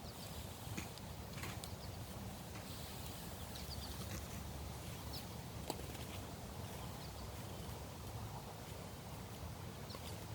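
Wind buffeting the microphone outdoors, a steady low rumble, with a few short, high chirps here and there.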